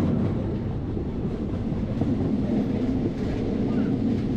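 Passenger train running along the track, heard at an open carriage door: a steady rumble of wheels and carriages.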